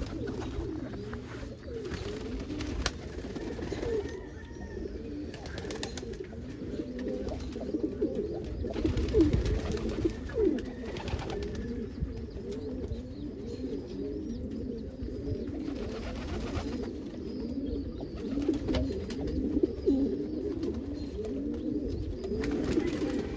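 A loft of domestic pigeons cooing, many birds at once, their coos overlapping without a break.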